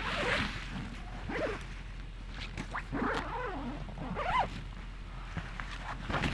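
A zipper pulled in several short strokes, each with a brief rising or falling pitch.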